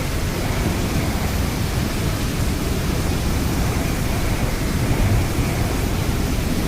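Strong snowstorm wind blowing steadily: a loud, even rush of noise, heaviest in the low end.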